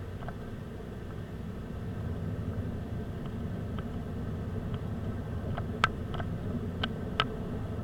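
A car's steady low engine and road rumble as it drives. In the second half there are about five short, sharp clicks or rattles.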